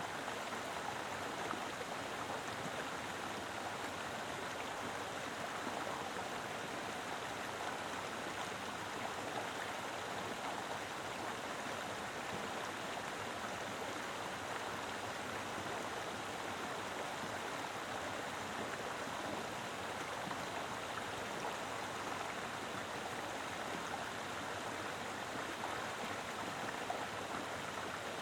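Mountain river flowing over rocks: a steady, full rush of water with no breaks.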